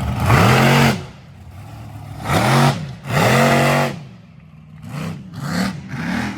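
Monster truck engine revving in hard bursts: three long revs in the first four seconds, then three shorter, quicker blips.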